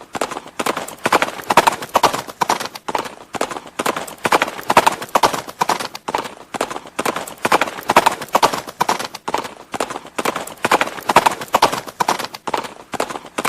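Horse hooves clip-clopping on a hard surface in a steady, repeating rhythm of quick groups of strikes, about one group a second.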